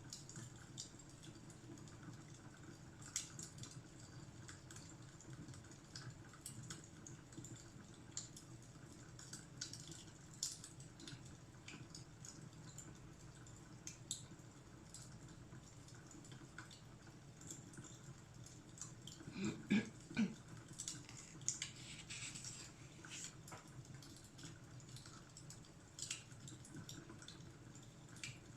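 Fireplace crackling faintly: irregular small pops and snaps over a low, steady rumble, with a louder burst of crackles about two-thirds of the way through.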